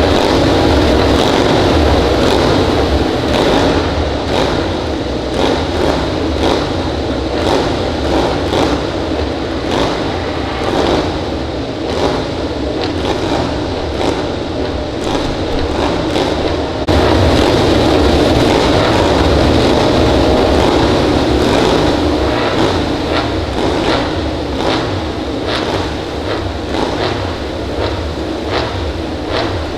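MotoGP racing motorcycle engines at the circuit, a loud steady din with short crackles throughout, jumping suddenly louder about 17 seconds in.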